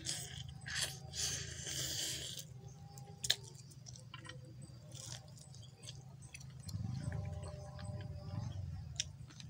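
A person chewing and biting grilled chicken close to the microphone: wet crunching mouth noises, busiest in the first two seconds, with a sharp click about three seconds in.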